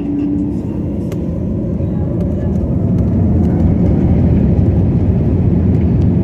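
Airbus A320 jet engines and airframe: a broad, low rumble that grows steadily louder, typical of the engines spooling up for the takeoff run. A steady tone fades out about half a second in.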